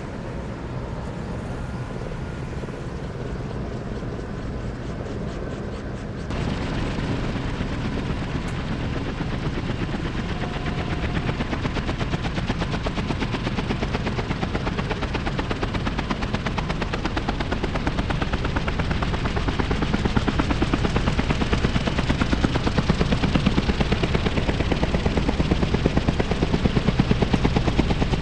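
Kaman K-MAX K-1200 synchropter running with a fast, steady beat from its intermeshing rotors. The sound jumps louder about six seconds in, then keeps building.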